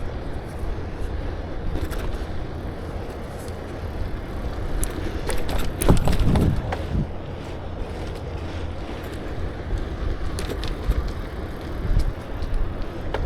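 Steady wind buffeting and road rumble from a moving bicycle, with light clicks and rattles. About six seconds in there is a louder rush lasting about a second.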